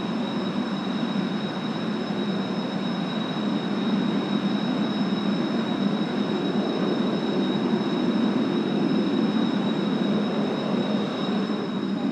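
Jet engines of Blue Impulse Kawasaki T-4 trainers running: a steady roar with a high, unchanging whine over it.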